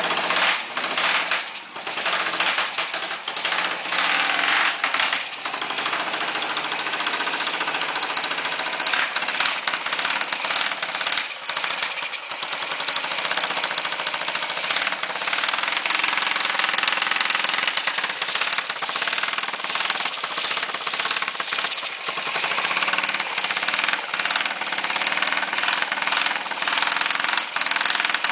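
Honda S90's single-cylinder four-stroke engine running loud through an open exhaust: only the front section of the muffler is fitted, with no baffle. It stays mostly at an uneven idle, steadier after the first few seconds. Fed by an aftermarket Honda Cub carburetor with too little fuel in the tank, it can't rev out from idle.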